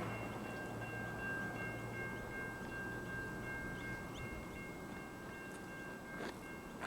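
Level crossing electronic bells ringing steadily, several tones at once, over the fading rumble of a train that has passed.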